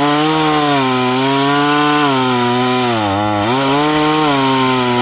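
Chainsaw running at full speed through wood, its pitch sagging briefly about three seconds in and then picking back up.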